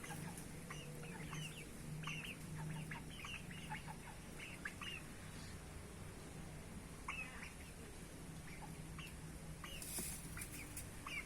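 A parrot making many short, falling chirps in irregular bursts, over a steady low hum.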